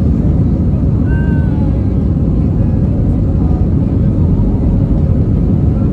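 Steady cabin roar of an Airbus A320 in flight, heard inside the passenger cabin: a loud, even, low rumble of engine and airflow noise.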